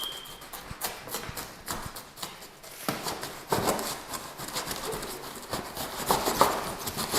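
Refrigerator packaging being handled: irregular rustling, scraping and knocks of cardboard and plastic.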